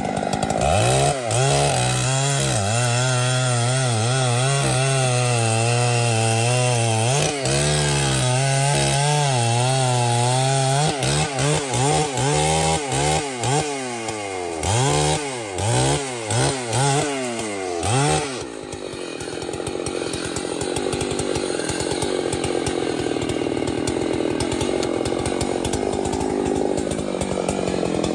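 Chainsaw running under load while cutting, its engine pitch wavering. From about 11 s to 18 s the throttle is blipped on and off in quick bursts, and after that the saw runs on steadily with a rougher sound and no clear pitch.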